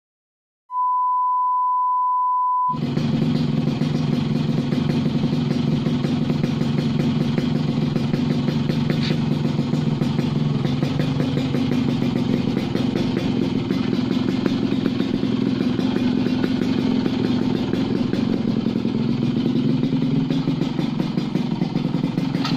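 A steady beep lasts about two seconds. Then a Yamaha RX-King's single-cylinder two-stroke engine runs steadily through a 'kolong' under-belly aftermarket exhaust while warming up.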